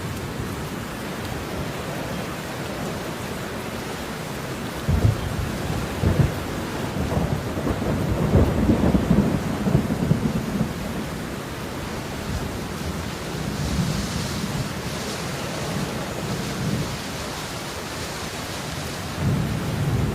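Steady rain falling, with low rumbling thunder rolling in about five seconds in, lasting several seconds, and again briefly near the end.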